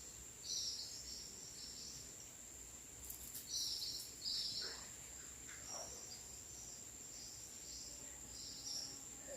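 Birds chirping in short bright bursts every second or so, with a couple of falling whistled calls midway, over a steady high-pitched insect trill.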